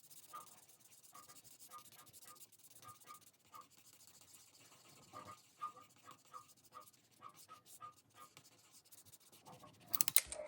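Faint scratching of a marker colouring in a box on a paper savings-challenge sheet, in short irregular strokes, with a few sharp clicks near the end.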